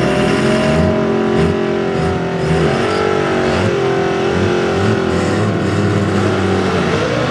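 4x4 pickup's gasoline engine running at high revs under load while pulling a sled, its pitch wavering up and down a few times as the revs rise and fall.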